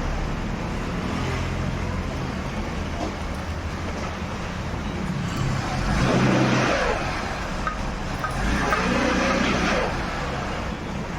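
A motor vehicle engine running steadily amid road traffic noise, with two louder swells about six and nine seconds in.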